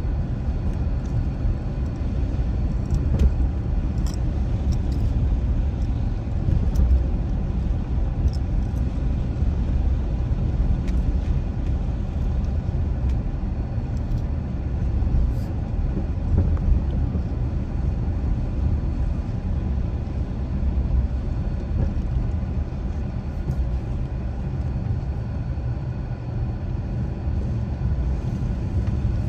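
A car driving steadily along a road, with a constant low rumble of engine and tyre noise.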